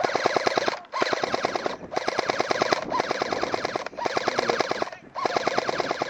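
Automatic airsoft gun firing in about six long bursts of rapid clicks, each about a second long, back to back with short breaks between them.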